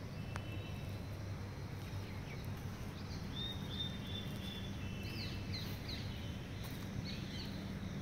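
Small birds chirping: short, high, repeated calls in a few clusters through the middle of the stretch, over a steady low background hum.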